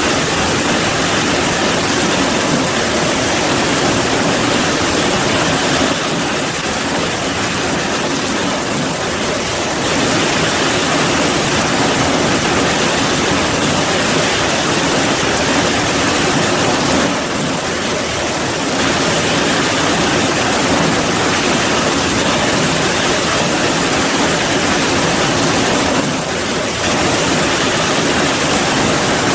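Heavy rain falling: a steady, dense hiss that eases slightly a few times.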